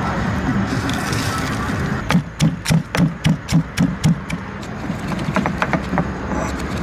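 A quick, evenly spaced run of about eight heavy knocks, roughly four a second, starting about two seconds in, over a steady background noise. A few lighter taps follow.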